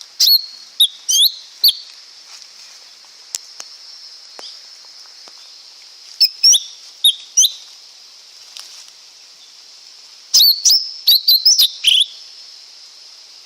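Lesser green leafbird calling: quick runs of sharp, curving whistled notes in three bouts, starting near the beginning, around six seconds in and around ten seconds in, over a steady high hiss.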